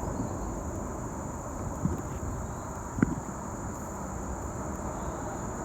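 Steady high-pitched drone of insects in the trees, over a low even rumble, with two short knocks about two and three seconds in.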